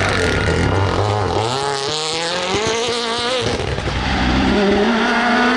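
Rally car engine at full throttle on a special stage as the car passes, its note climbing in pitch and holding high, then breaking off about three and a half seconds in. Another engine note rises again near the end.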